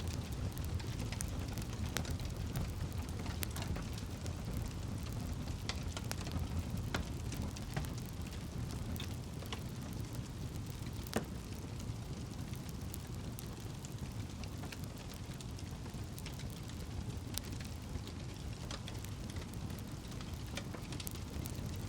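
Campfire burning: a steady low rumble with scattered sharp crackles and pops of burning wood, one louder pop about eleven seconds in.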